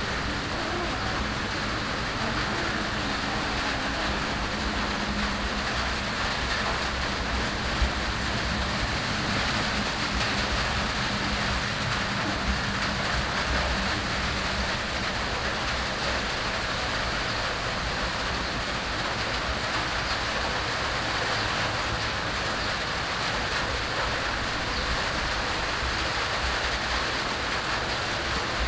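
Steady rain falling, an even hiss with no let-up, with one brief knock about eight seconds in.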